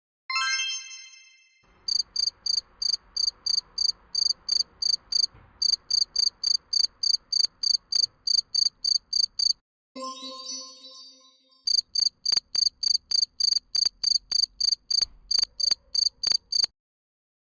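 Cricket chirping: a steady run of short, high chirps, about three or four a second, in two stretches. A bright chime rings just before each stretch, at the start and about ten seconds in.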